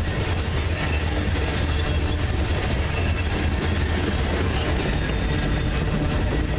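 Freight train cars rolling past on the rails, a steady loud rumble with wheel-on-rail noise.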